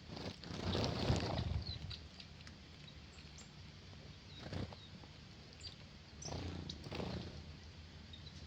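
Small birds giving scattered short, high chirps, with two louder rushing swells of noise, one about a second in and one near the end.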